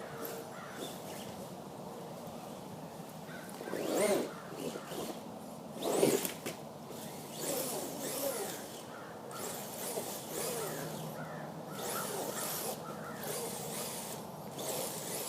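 Radio-controlled truck's electric motor and drivetrain whining in bursts as the truck is driven, the pitch rising and falling with the throttle, loudest about 4 and 6 seconds in.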